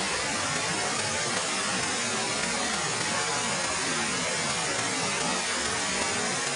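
Bu Sra Waterfall's water falling and splashing in a steady, unbroken rush.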